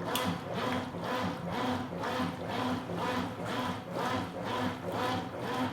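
Consul Supercargo 8 kg top-loading washing machine agitating a load of towels. The motor hum and the churning swell in a regular pulse about twice a second as the agitator works back and forth.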